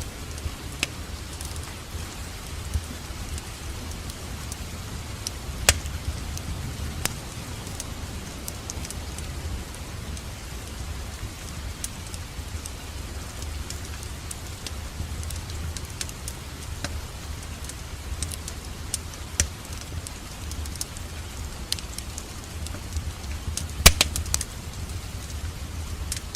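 Wood fire in a fireplace crackling, with a steady low rumble under scattered sharp pops; the loudest is a quick cluster of pops near the end.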